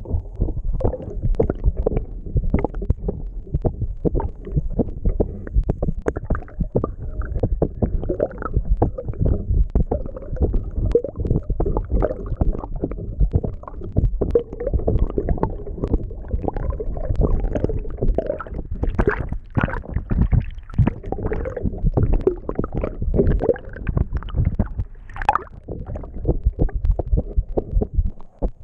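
Water rushing and gurgling past an underwater camera on a moving sailboat: a constant low rumble dotted with many small pops and knocks.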